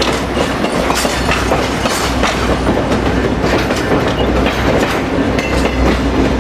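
Passenger train rolling on the rails, heard from on board: a steady low rumble with frequent sharp clicks and clanks from the wheels and couplings.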